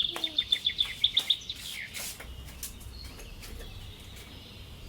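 A bird chirping in a quick run of short, high notes that fade out after about two seconds.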